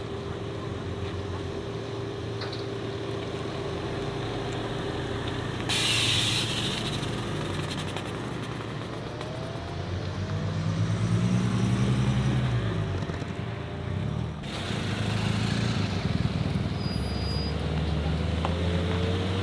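Modified cars' engines running and revving as they pull away one after another, the engine pitch rising and falling about ten to thirteen seconds in. There is a short, loud hiss about six seconds in.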